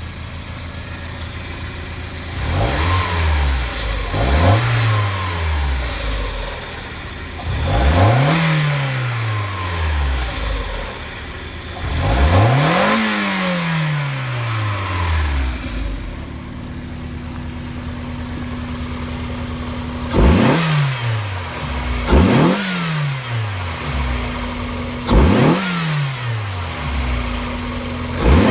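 Mazda Eunos Roadster four-cylinder engines idling and being free-revved in turn, first one car and then, about sixteen seconds in, the other: the 1.6 L B6-ZE of the NA6C and the 1.8 L BP-ZE of the NA8C. Each engine gets four quick throttle blips that rise sharply and fall back to idle.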